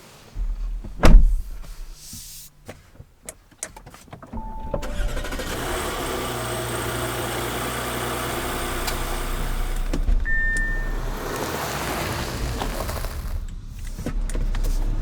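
A car door thuds shut about a second in, followed by a few clicks, then the Audi Q7 starts with two short chime beeps and runs steadily, with another short beep partway through.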